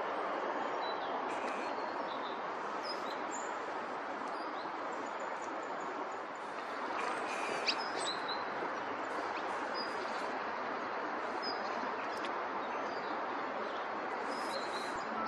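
Small songbirds giving short, scattered high chirps over a steady rushing background noise.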